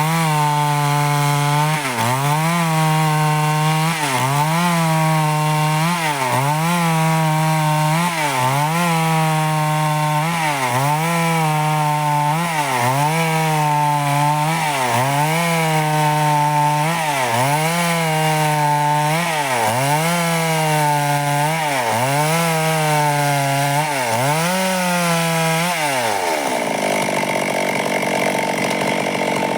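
Stihl chainsaw running at high revs while cutting wood. Its pitch dips briefly about every two seconds as the chain loads up in the cut. About 26 seconds in the throttle is let off and the engine drops to idle.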